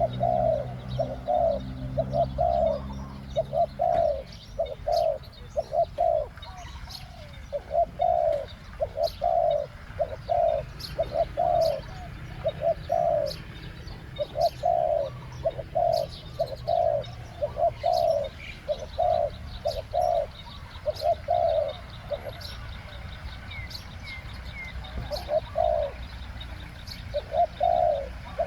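Spotted dove cooing repeatedly: short, deep coos in runs with brief pauses between them. Faint high chirps from small birds sound in the background, and there is a low hum in the first few seconds.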